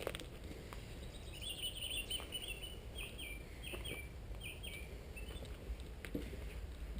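A small bird singing a run of quick, repeated chirping notes for about three seconds, over a low steady rumble and a few faint knocks.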